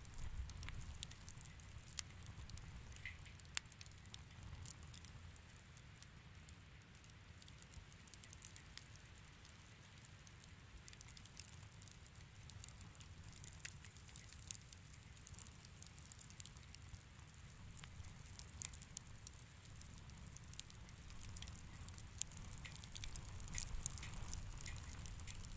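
Wood fire crackling in a fireplace: a low rumble with irregular sharp pops and snaps, more frequent near the end.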